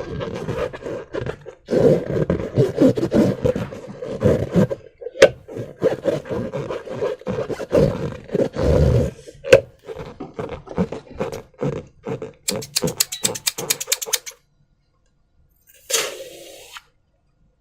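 Air escaping from a rubber balloon through its stretched neck: a buzzing squeal held at one pitch that sputters on and off, turns into a fast, even flutter near the end, and ends with one short burst.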